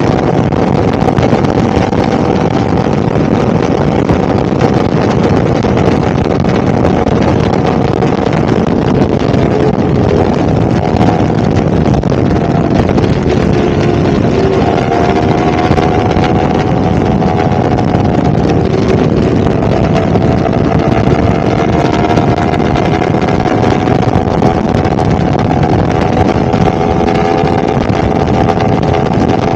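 Yamaha R1 superbike's inline-four engine running steadily, its pitch drifting slightly up and down, under a loud rushing noise.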